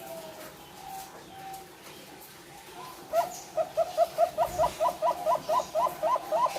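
Zebra dove (perkutut) cooing: a few faint coos, then about three seconds in a rapid run of short notes, about four a second, climbing steadily in pitch.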